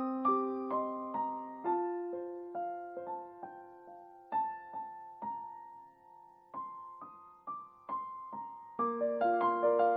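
Soft solo piano music: single notes struck one after another, thinning to a few sparse notes in the middle and growing fuller near the end.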